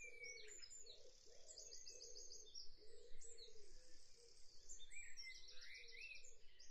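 Faint bird chirps and rapid trills, over low background noise.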